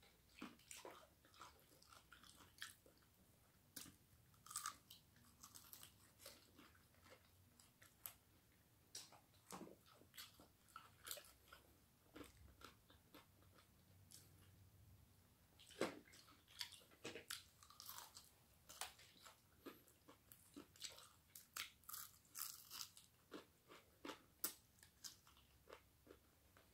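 Faint close-up chewing and biting of crispy fried chicken: many short, irregular crunches.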